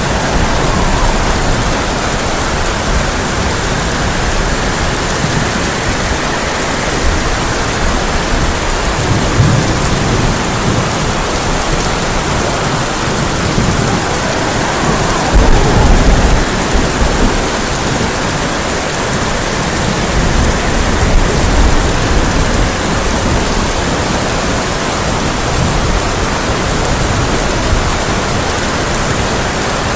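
Heavy rain drumming steadily on a tin roof, with low rolls of thunder swelling under it, the loudest about halfway through.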